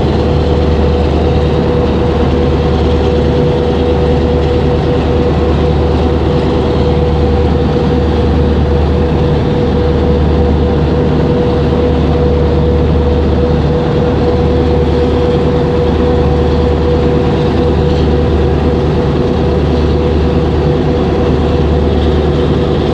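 Boat engine running steadily, heard on board: a loud, constant low drone with a steady hum over it and rushing noise.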